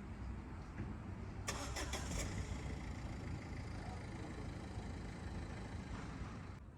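A car engine running close by in the street, with a short run of sharp clicks about a second and a half in.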